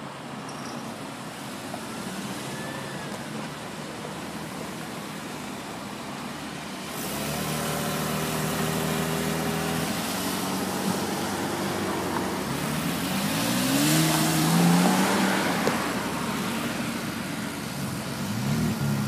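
Car engines as cars drive off: from about seven seconds in an engine runs with a steady note, then revs up with a rising pitch, loudest about two-thirds of the way through, and another engine rises again near the end.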